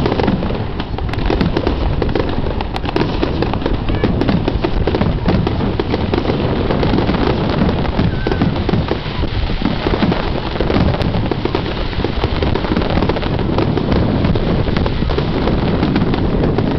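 Fireworks display: a dense, continuous barrage of aerial shells bursting and crackling, the bangs running into one another without a pause.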